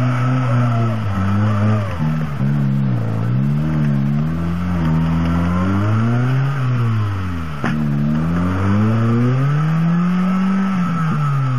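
Small 4x4's engine, a Suzuki Samurai type, revving up and down over and over as it climbs a muddy, rutted slope under load. A single sharp click is heard about two thirds of the way through.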